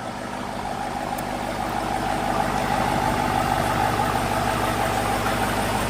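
Car engine idling steadily, growing gradually louder.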